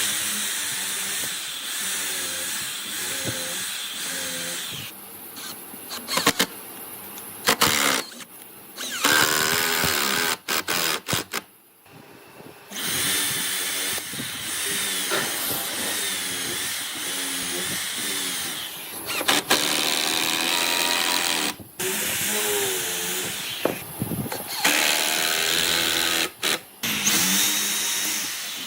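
Handheld electric power tools working wood, running in a string of short clips that stop and start abruptly, their pitch wavering as they bear on the wood.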